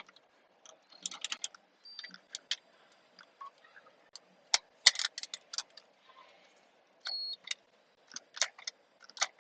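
Ratchet wrench and metal hand tools clicking and clinking in irregular short bursts as a fastener is worked on, with a brief high squeak about seven seconds in.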